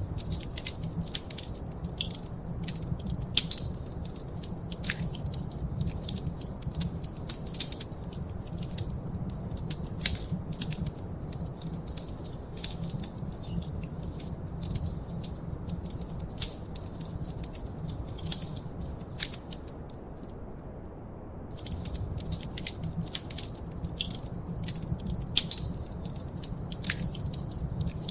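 Fire crackling in a fireplace: many sharp, irregular pops and snaps over a steady low rumble. The crackling stops briefly about two-thirds of the way through, then picks up again.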